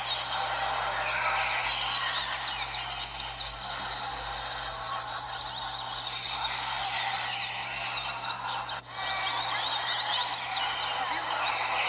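Many double-collared seedeaters (coleiros) singing at once: a dense, continuous chorus of fast, overlapping chirping songs, with a very brief dropout about two-thirds of the way through.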